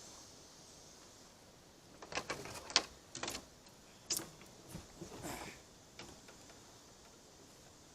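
Handling noises in a kayak: a cluster of knocks, clicks and short scrapes of gear and the landed fish being moved about, with the loudest a sharp knock about three seconds in. The sounds stop about five and a half seconds in.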